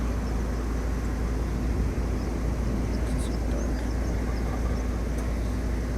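Steady road and engine noise of a moving vehicle: an even, low rumble with a faint steady hum.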